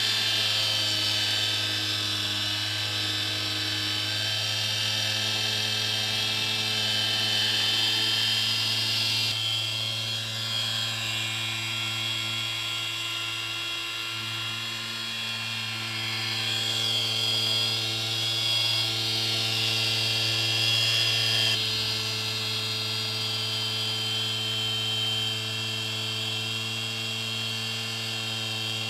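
Stepper motor of a digitally controlled dividing head (CNC fourth axis) running, a steady hum with a high whine over it. The whine changes character about 9 seconds in and again about 21 seconds in.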